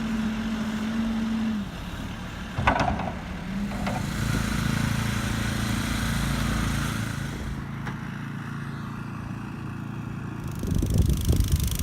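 A motor engine running steadily, with a short scrape or knock about three seconds in and rougher, louder noise near the end.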